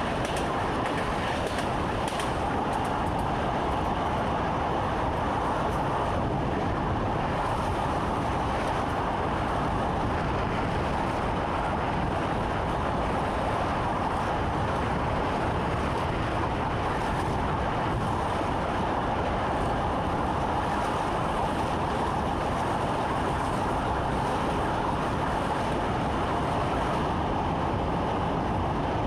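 Train running at speed, heard from inside the driver's cab: a steady rumbling running noise with a constant drone.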